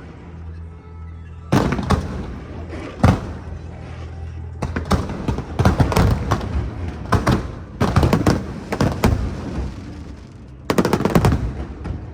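Aerial fireworks bursting: a few single bangs, then rapid clusters of crackling reports, over background music.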